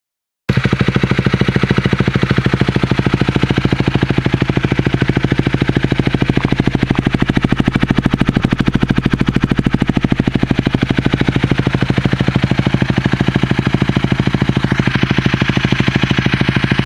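Honda Rebel 250's single-cylinder engine idling steadily through an aftermarket slip-on muffler, a loud even rapid thumping. It starts abruptly about half a second in.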